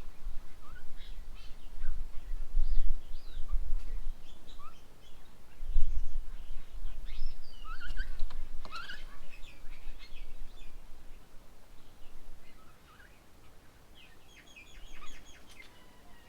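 Several birds calling and chirping in short, overlapping notes, busiest about halfway through and again near the end, over a low rumble that fades after about ten seconds.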